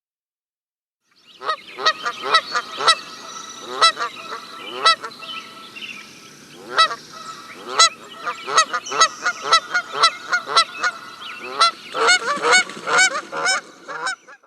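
A flock of geese honking: many short calls, often overlapping, starting about a second in after a moment of silence.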